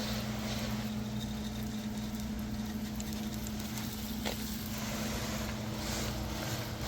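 A steady low mechanical hum with a constant tone, over a faint hiss.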